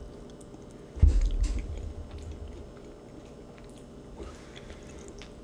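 A person chewing a mouthful of macaroni and cheese, with small wet mouth sounds. A dull low thump comes about a second in.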